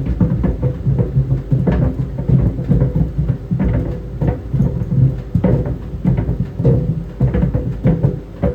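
Tennis balls tumbling in a running clothes dryer, thudding irregularly against the drum several times a second over the dryer's steady hum.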